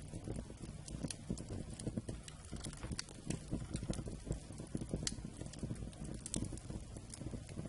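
Wood campfire burning: a steady low rumble of flames with frequent irregular crackles and pops from the burning wood.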